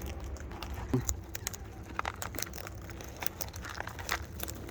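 Wild parrots feeding on seed: scattered sharp clicks and crunches of beaks cracking seed and tapping.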